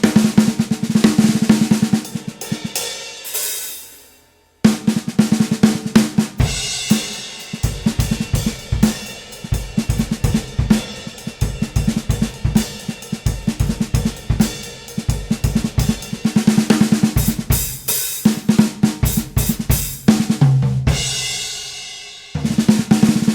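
Drum kit played in quick phrases: snare drum strokes and fills over hi-hat, cymbals and bass drum. The playing breaks off suddenly about four seconds in, then starts again, with a brief stop near the end.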